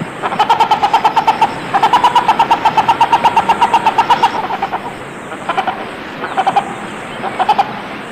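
Sumba hornbill (Rhyticeros everetti) giving its rapid, clipped "kokokok" call: runs of even notes, about six or seven a second. The longest run falls near the middle, and shorter runs follow near the end.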